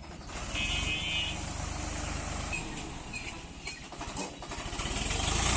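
Swaraj 744 FE tractor's diesel engine running with an even low pulse, growing louder toward the end. A brief high tone sounds about half a second in.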